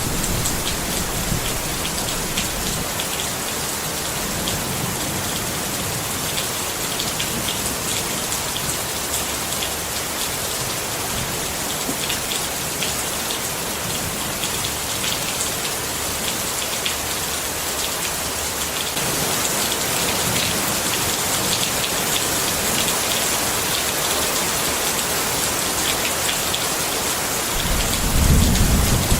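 Steady rain pattering on a tent, thick with individual drop hits. A low rumble swells near the end.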